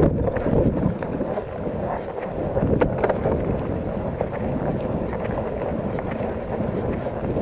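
Wind buffeting the microphone of a camera carried on a moving bicycle, a steady low rumble, with a brief clatter from the bike about three seconds in.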